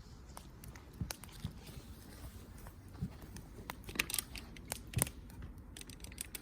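Wood fire crackling: irregular sharp pops and snaps, a few louder ones about four and five seconds in, over a low steady rumble of the burning fire.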